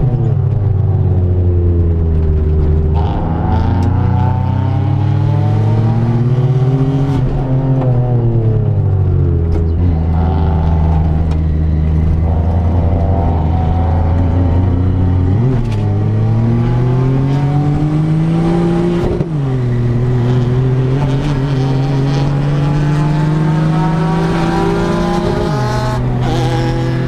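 Turbocharged Perodua Kancil / Daihatsu Mira L500 race car's engine heard from inside the cabin under racing load. The revs wind up, fall away for a corner, then climb again through the gears, dropping suddenly at two upshifts near the end.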